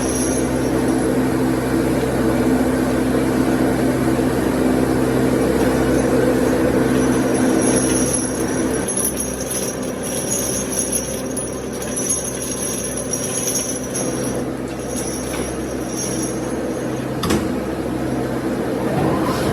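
An electric workshop machine running steadily with a low hum, with high-pitched ringing tones that come and go through the middle and a single sharp click near the end.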